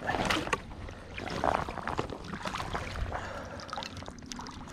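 Water splashing in irregular bursts as a hooked largemouth bass is brought in at the surface, with a low rumble of wind on the microphone.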